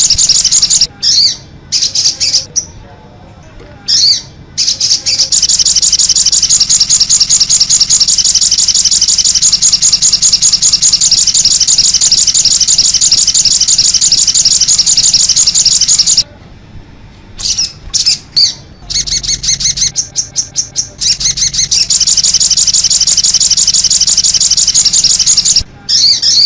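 Sogon bird giving its 'cit anten' chatter: long, loud runs of rapid high-pitched repeated notes, with short breaks about a second in and again around the middle.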